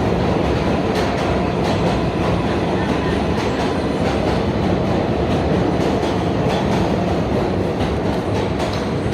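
New York City subway train running through an elevated station, a loud steady rumble of wheels on rail with light clicks over the rail joints.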